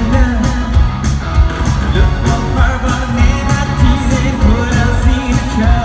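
Live rock band playing loudly with a lead singer, drums keeping a steady beat of about two hits a second.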